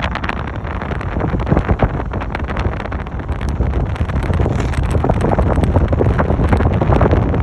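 Railroad train rolling by: a steady low rumble with dense, irregular clattering and knocking, building slightly toward the end, with wind buffeting the microphone.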